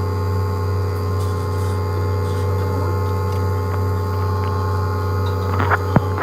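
A steady low electrical hum with a few faint ticks and one sharp click near the end.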